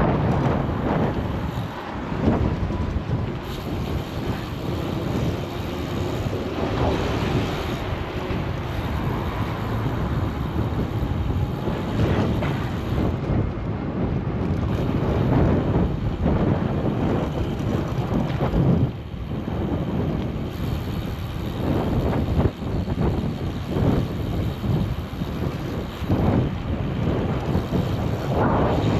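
Wind rushing over a bike-mounted GoPro's microphone while cycling, mixed with the hum of passing street traffic. The noise swells and dips in frequent gusts.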